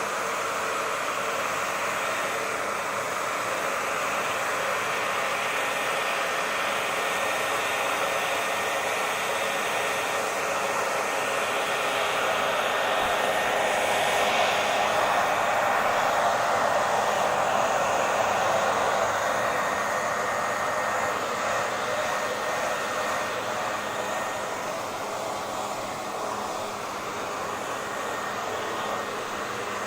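Hair dryer running continuously, a steady rush of blown air with a faint motor whine, swelling slightly louder about halfway through and then easing back.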